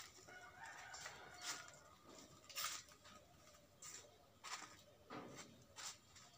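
Faint bird calls and scattered short sharp clicks.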